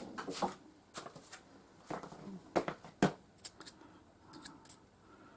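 Light, irregular metallic clicks and taps from hand work at a milling machine that has just stopped cutting, as the freshly milled aluminium part and tools are handled.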